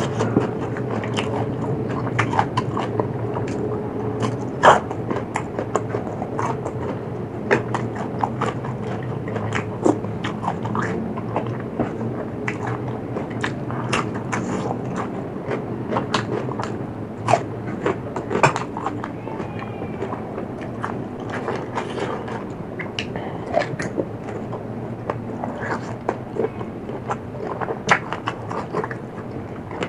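Close-miked chewing and biting into crunchy food, a spicy seafood salad with raw hot peppers, giving many irregular crisp crunches and wet mouth clicks over a steady low hum.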